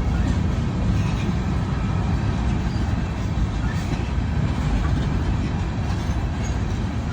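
Train rolling by: a steady low rumble.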